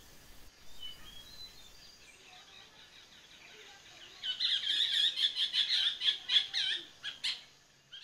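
A bird calling: a few faint chirps, then about halfway through a loud, rapid run of repeated chirping notes lasting about three seconds, ending with one sharp note.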